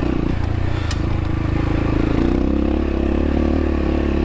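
X-Pro Templar X 250 dirt bike engine running at low, steady revs, picking up slightly about halfway through. There is one sharp click about a second in.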